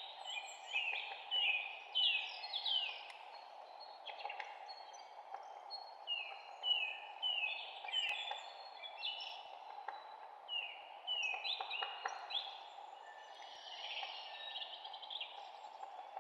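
Several wild birds chirping, many short quick notes that drop in pitch, one after another without pause, over a steady background rush.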